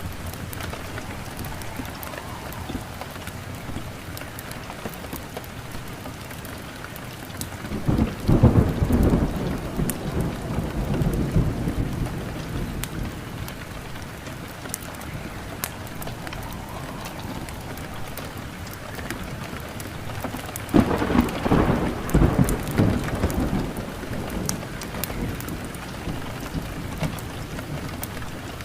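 Steady rain with two rolls of thunder. The first rumbles in about eight seconds in and the second about twenty-one seconds in, each swelling and fading over several seconds.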